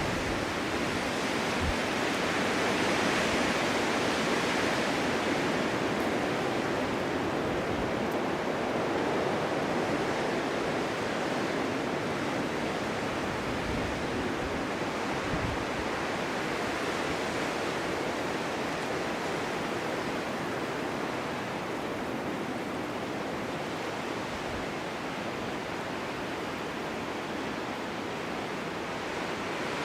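Snowstorm wind blowing steadily, a continuous rushing hiss that swells a few seconds in and eases a little toward the end.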